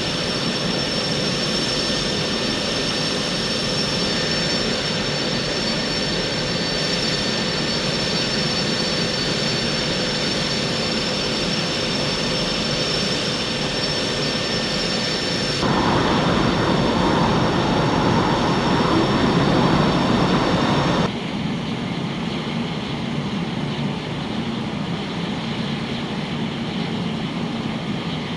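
Saab JAS 39 Gripen fighter jet engine noise, a steady rush with a high whine. The sound changes abruptly twice, growing louder and deeper for about five seconds in the middle, then dropping back.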